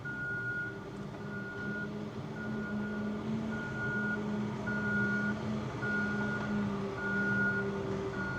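A vehicle's reversing alarm beeping at one steady pitch, about once a second, over the low drone of an idling engine.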